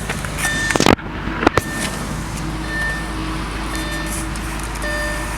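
Audi S4's 4.2-litre V8 idling steadily, heard from inside the car, with a sharp click a little under a second in and another about half a second later. A short high beep comes back now and then.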